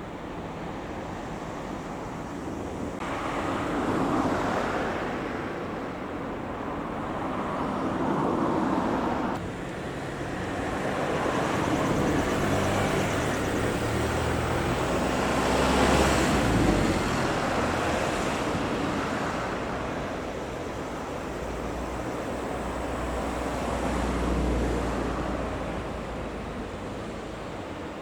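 Road vehicles driving past one after another, engine and tyre noise swelling and fading several times, loudest about halfway through.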